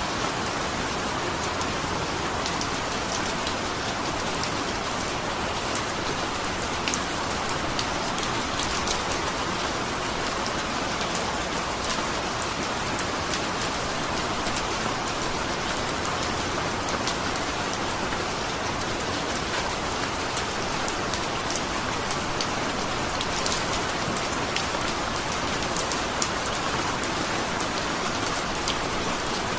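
Steady rainfall: an even hiss of rain with many individual drops striking close by, heard as scattered sharp ticks.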